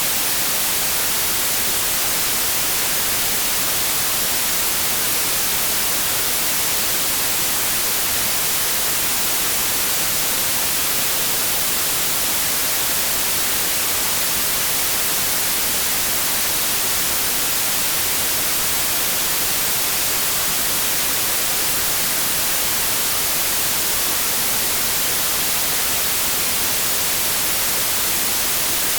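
Steady, unchanging white noise: an even hiss of static.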